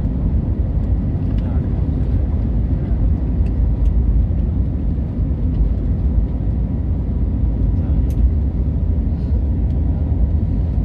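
Airplane taking off: a loud, steady low rumble with no change in pitch.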